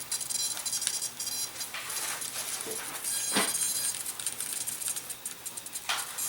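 Small clicks and scraping of a screwdriver driving small servo screws into a model plane's power pod, with brief handling swishes.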